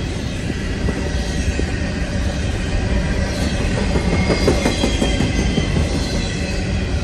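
Long CN intermodal freight train rolling past, its wheels clattering over the rail in a fast, dense run of clicks, with several thin, high-pitched wheel squeals on top that are strongest around the middle.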